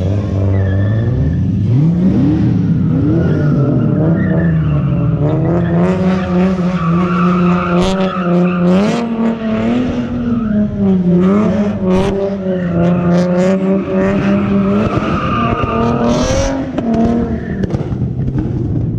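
Car engine revved up and held at high revs, its pitch wobbling, while the tyres spin and squeal in a burnout or donut. A few sharp cracks come in the middle.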